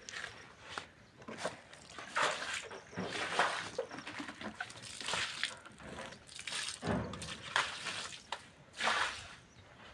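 Water sloshing and splashing in a run of irregular swishes, roughly one a second, as in rinsing or scrubbing a floor.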